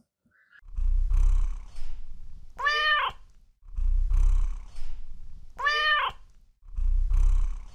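A domestic cat purring in three stretches, with two meows between them. Each meow rises and then falls in pitch, and the same purr-and-meow pattern repeats about every three seconds.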